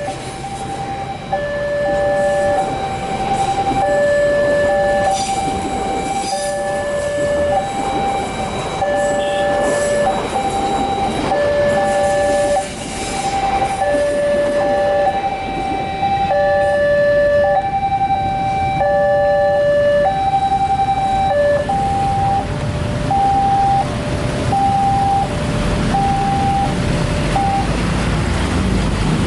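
Railroad level-crossing warning alarm sounding an electronic two-tone chime that alternates between a lower and a higher tone, while a train rumbles nearer. About twenty-two seconds in, the lower tone drops out and the higher tone repeats alone for a few more seconds as the train's rumble swells.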